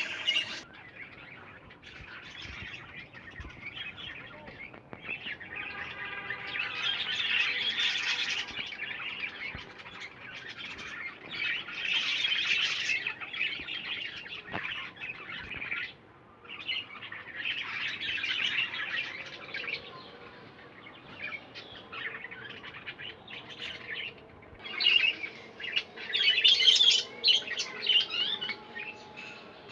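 Budgerigars chattering and warbling, a dense run of quick chirps in irregular bursts that grows louder near the end.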